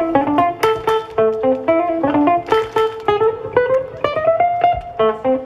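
Instrumental music with guitar playing a quick melody of short plucked notes; a bit past the middle one note slides upward and is held.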